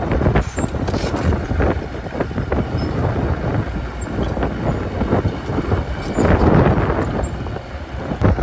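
Bulldozer's diesel engine working under load, with repeated clanking knocks, swelling louder for a moment about six seconds in. Wind buffets the microphone.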